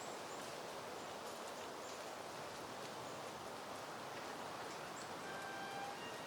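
Soft, steady wind rustling through leafy plants and flowers. Faint, short high chirps come through now and then, and a brief thin whistling tone is heard about five seconds in.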